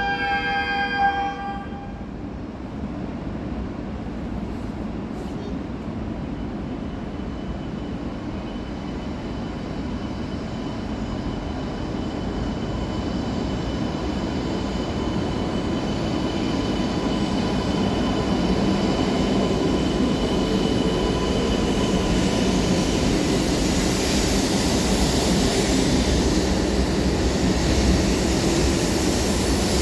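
A station chime of a few steady tones ends about a second in. After it, an E2-series Joetsu Shinkansen train runs at the platform, its noise steadily growing louder and brighter, with a faint steady whine over it.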